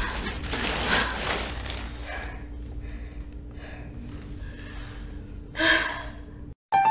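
A woman sighing and breathing out hard from tiredness, with a louder voiced sigh near the end that cuts off abruptly.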